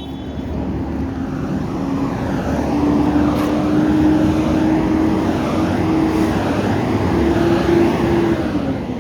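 A vehicle engine running loudly and steadily, its pitch edging up a little early on and falling near the end.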